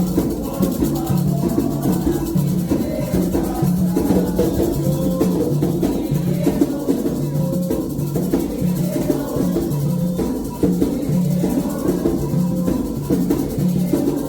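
Candomblé toque: atabaque hand drums beating a steady, driving rhythmic pattern, with a shaker rattling along in time.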